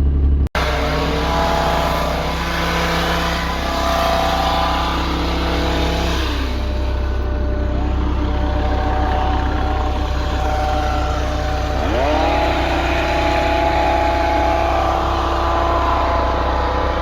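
Engine running steadily, its pitch falling about six seconds in and rising again about twelve seconds in, as the revs change.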